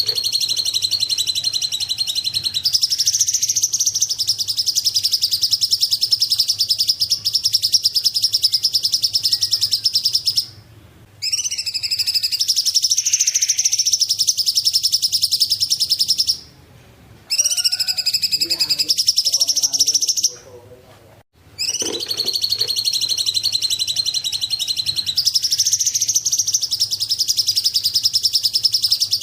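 Cungkok bird singing: long, rapid, high-pitched trills, each held for several seconds, with three short pauses between them.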